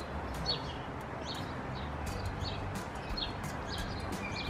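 Small birds chirping, short high chirps repeating about twice a second, over a faint steady background hum.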